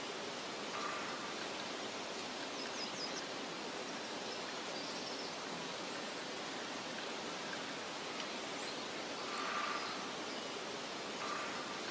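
Meadow ambience: a steady soft hiss of wind, with a few faint, short bird chirps now and then, including a quick run of high notes about three seconds in.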